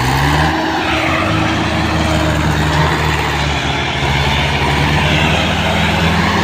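Tractor diesel engine climbing in revs at first, then running steadily under load while towing another tractor.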